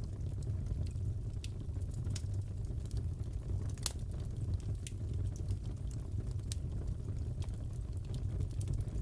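Fireplace fire crackling: irregular sharp pops and snaps over a steady low rumble of the flames, the loudest pop about four seconds in.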